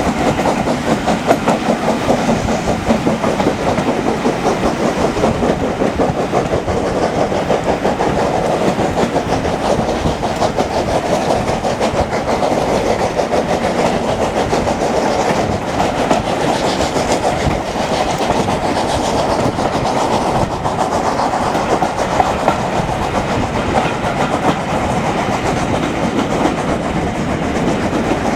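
Heritage railway train running along the track: a loud, steady rail noise that holds evenly without a break.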